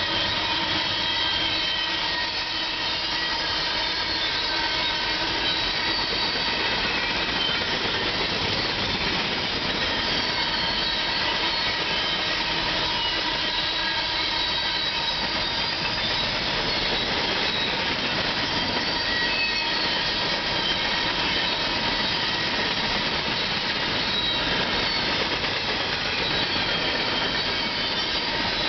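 Norfolk Southern empty coal train rolling past at a steady pace, its car wheels on the rails making a continuous rushing noise with faint high steady squeals over it.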